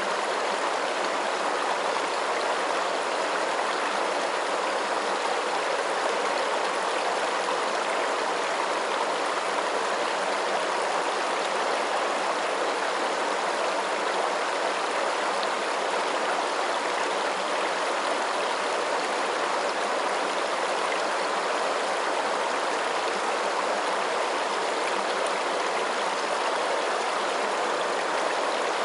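Running water, a steady even rush with no single splashes or drips standing out.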